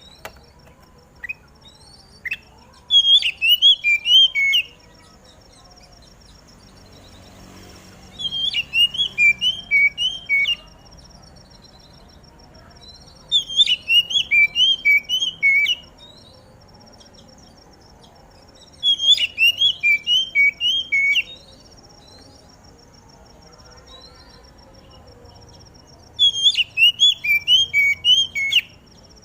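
Oriental magpie-robin singing: five phrases of quick repeated whistled notes, each about two seconds long, with pauses of a few seconds between them. A faint steady high pulsing tone runs underneath.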